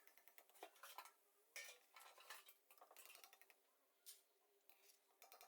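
Near silence with a few faint metal clinks of a utensil against the pan as the fried boondi is lifted out; the oil is no longer sizzling, the sign that the boondi is fried through.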